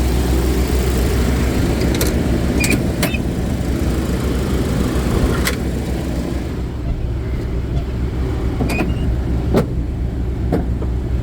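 Truck-mounted refrigeration (reefer) unit running with a steady low hum, with a few light clicks over it. The upper hiss drops away about halfway through.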